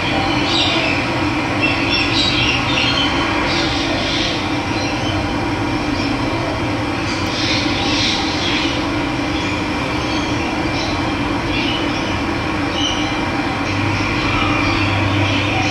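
Running water with wild birds chirping in short bursts over it.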